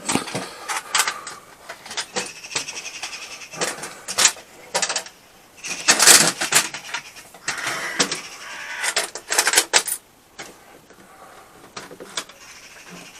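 Hand work on a workbench: irregular metallic clicks, knocks and scraping as a jigsaw and parts are shifted and set in place on a table. The louder rattles and scrapes come about four, six and nine seconds in, with quieter handling near the end.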